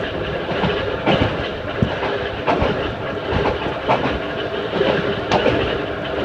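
Ohmi Railway 220-series electric car with nose-suspended (tsurikake) traction motors running at speed, heard from inside the car. Wheels clack over rail joints about once or twice a second above a steady rumble and hum from the running gear.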